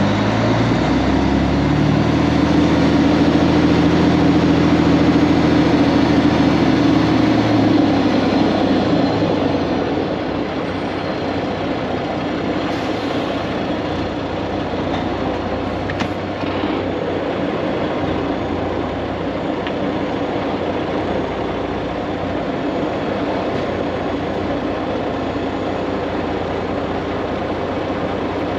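Heavy diesel engine of a semi truck, a Cummins X15 in a Kenworth W900, running under load with a strong engine note for about the first nine seconds, then settling to a steadier, quieter running sound.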